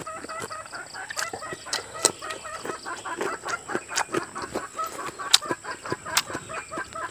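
Close-up eating sounds: chewing rice and crisp cucumber, with sharp wet mouth smacks and clicks several times a second. A rapid run of short chirping calls carries on behind it.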